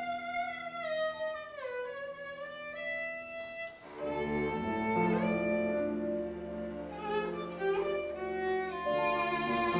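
Live chamber music on bowed strings. A solo violin plays a melody with a sliding descent for about four seconds, then the ensemble comes in with sustained low notes underneath.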